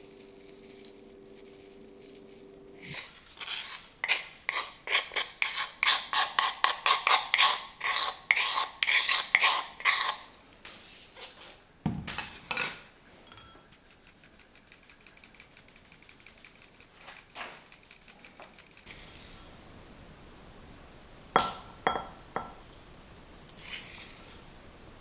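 Kitchen utensils working against dishes. First a run of loud rhythmic scraping strokes, about two to three a second, then a spell of lighter, faster ticking, then a few sharp clinks, one of them briefly ringing.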